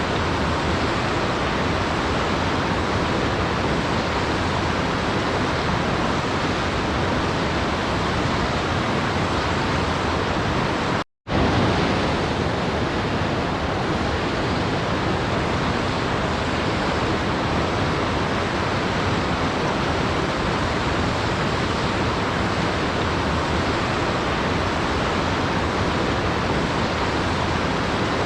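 Waterfall: a steady, even rush of falling water, broken by a brief cut to silence about eleven seconds in.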